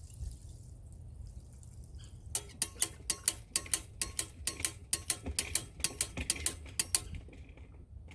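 Well pump pressure switch chattering: a rapid run of sharp clicks, about five a second, that starts a couple of seconds in and stops about a second before the end. The contacts are cutting the pump in and out far too fast, the surging short-cycle that the owner puts down to the system having frozen.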